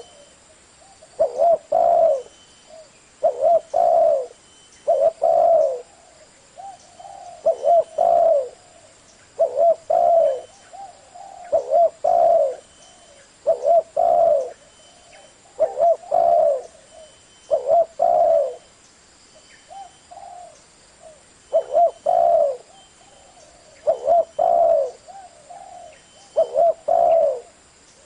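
Spotted dove cooing in its 'thổ' voice type, a phrase of two or three low coos repeated about every two seconds. This is the call used to draw wild doves in.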